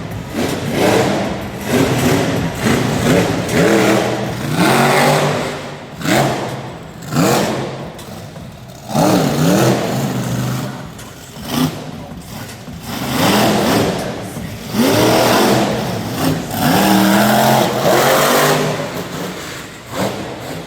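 Monster truck engine revving hard in repeated bursts, its pitch sweeping up with each blip of the throttle and falling back between them.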